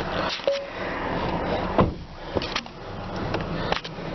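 Scattered clicks and knocks from handling the interior of a 2008 Honda Accord, the loudest a sharp knock about two seconds in, over the steady low hum of its idling engine.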